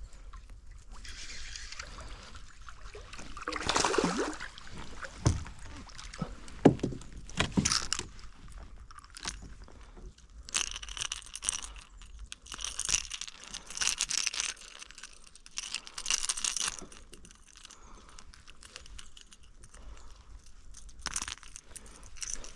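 Fishing tackle handled aboard a kayak: metal jangling and scraping that come and go in short rattling bursts, with a few sharp clicks.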